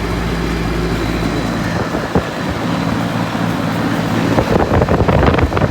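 Outdoor air-conditioning condenser unit running with a steady electrical hum; a low rumble under it drops away about a second and a half in. Near the end a burst of clattering knocks comes over the hum.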